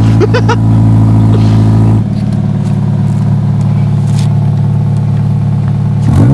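Scion FR-S/Subaru BRZ's flat-four engine idling through a muffler-deleted, straight-piped exhaust, a loud, steady exhaust note that steps down a little about two seconds in. The revs start to climb right at the end.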